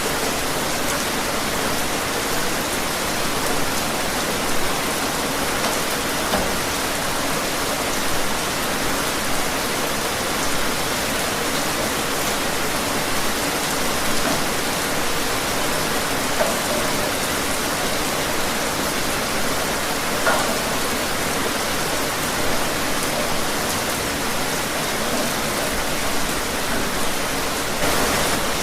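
Steady rain falling outdoors, a constant hiss with scattered small drop impacts.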